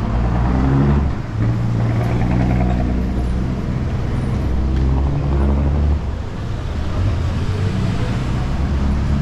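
City street traffic: motor vehicle engines running close by with a low, steady hum whose pitch shifts slightly a couple of times.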